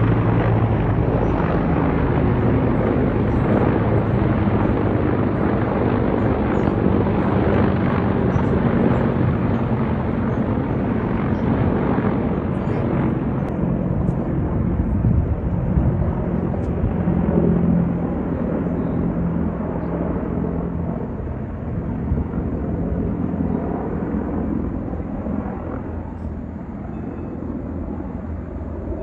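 Helicopter flying overhead, a steady rotor and engine rumble that gradually fades as it moves away over the second half.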